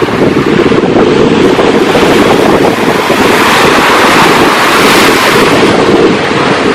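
Ocean surf with heavy wind buffeting the microphone; a wave's hiss swells through the middle and eases near the end.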